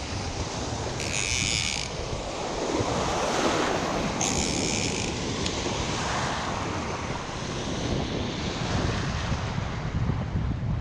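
Wind buffeting the microphone, a steady rumbling noise, with two short high-pitched whirring bursts about one second and four seconds in.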